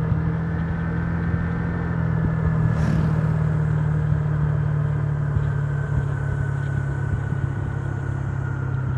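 Honda Giorno 125 scooter's single-cylinder engine running steadily under way, with road and wind noise; its pitch eases slightly downward in the last few seconds. A brief rushing noise comes about three seconds in.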